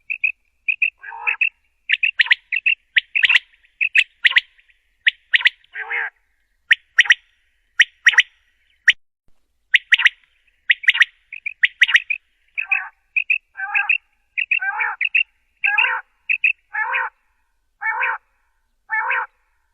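Common quail calling over and over in short, sharp notes. The first half is a fast, clicky run; the second half settles to about one fuller call a second.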